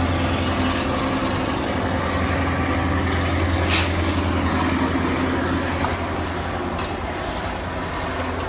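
Diesel locomotive idling, a steady low engine hum, with a short hiss about three and a half seconds in.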